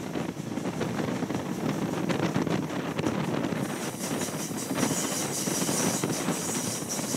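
Steady rumble of a moving passenger train heard from on board, with wind on the microphone; a brighter, higher hiss joins about four seconds in.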